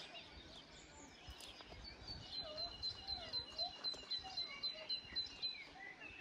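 A bird singing outdoors: a rapid run of short, high, repeated notes, about four to five a second, lasting some three seconds, over faint background birdsong.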